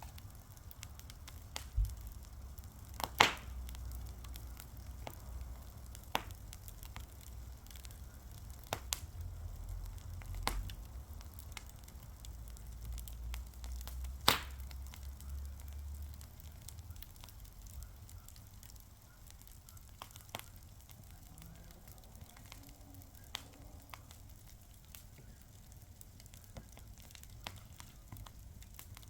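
Wood fire burning, with irregular sharp pops and crackles over a faint hiss; the loudest pops come about three seconds in and again near the middle.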